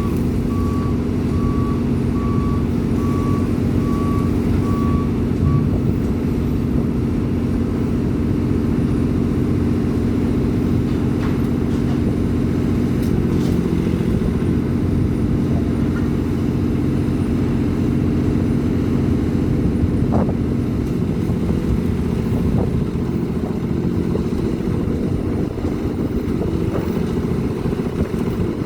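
Heavy construction machine's diesel engine running steadily, with a repeating alarm beep for roughly the first five seconds.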